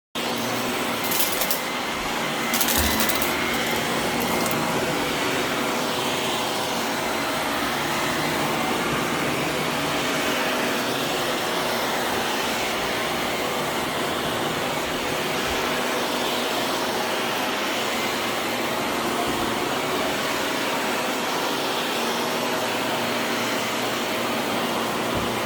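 Vacuum cleaner running steadily, its motor noise even, with a faint steady hum. A few clicks and bumps come in the first three seconds.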